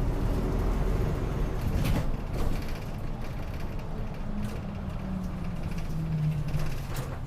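Interior sound of a city route bus coming to a stop: the engine's low rumble eases about two seconds in and settles to a steady idle hum. A sharp mechanical click comes about two seconds in, and another near the end.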